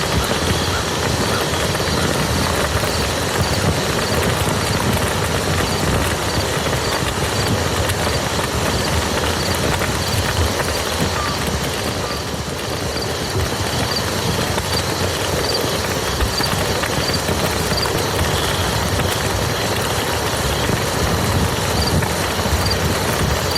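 Steady rain falling on a muddy field, an even, unbroken patter of drops.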